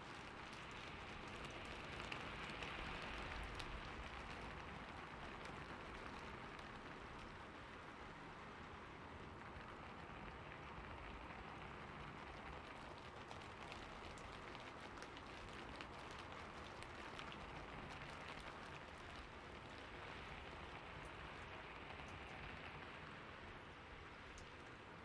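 Steady rain falling, an even hiss of many fine drop ticks that swells and eases slowly every few seconds.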